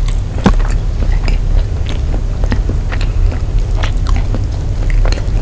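Close-miked chewing of a mouthful of nasi padang, rice and chicken eaten by hand, with a string of short wet mouth clicks and one sharper click about half a second in, over a steady low hum.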